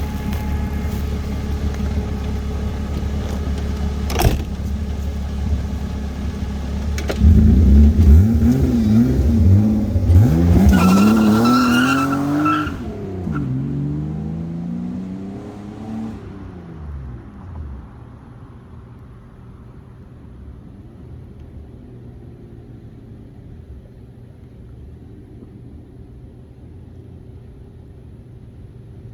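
Swapped S50 inline-six in a BMW E30 coupe accelerating hard past. A steady low rumble gives way, about seven seconds in, to a loud engine note whose pitch climbs as it revs. The pitch then drops as the car passes, and the sound fades away over several seconds.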